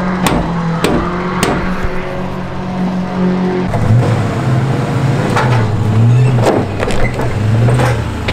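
Car engine running at low speed, steady at first, then its pitch wavering up and down under light throttle, with a few sharp clunks. This is the 1995 Mustang GT's 5.0 pushrod V8.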